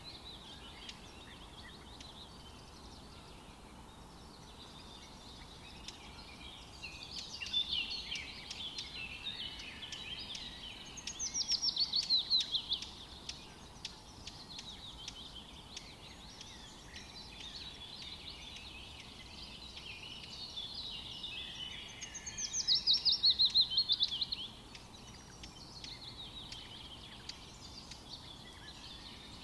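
Wild birds singing, with overlapping chirps and warbles over a faint steady background hiss. Twice, about eleven and about twenty-two seconds in, a louder song of quick repeated notes drops steadily in pitch over a second or two.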